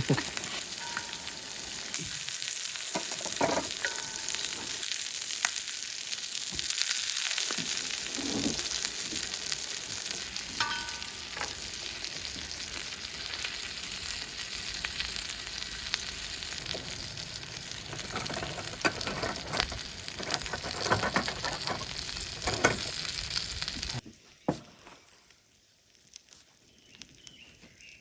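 Food sizzling and crackling in a hot pan, a steady frying hiss that stops abruptly about four seconds before the end, leaving only faint clicks.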